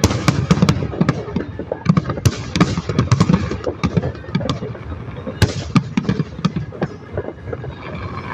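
Fireworks going off in quick succession: many sharp bangs and crackles over a low rumble, thinning out a little near the end.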